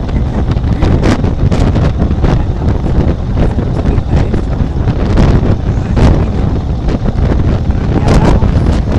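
Wind buffeting the microphone on a moving motorcycle: a loud, low rumble broken by frequent short crackling gusts.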